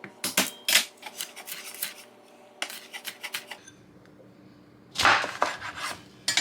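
Kitchen knife and utensils clicking and knocking on a cutting board and dishes during food prep, a string of sharp taps, then a quieter stretch and a loud scraping clatter about five seconds in.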